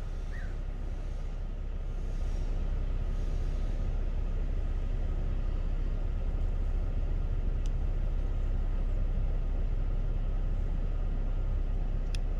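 Steady low rumble of vehicle road noise, with a bird calling once near the start.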